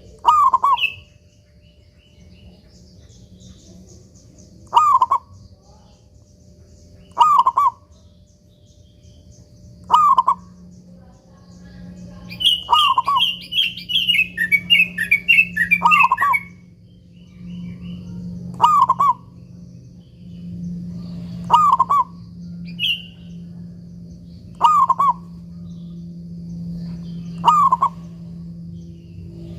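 Zebra dove (perkutut) cooing: short, sharp phrases repeated every two to three seconds, about ten in all. Another small bird chirps rapidly for a few seconds in the middle, over a steady low hum.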